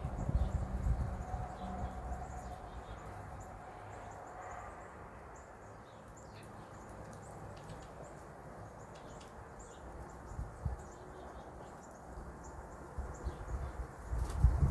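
Small birds giving short, faint chirps and calls, with low rumbling bumps on the microphone at the start and again near the end.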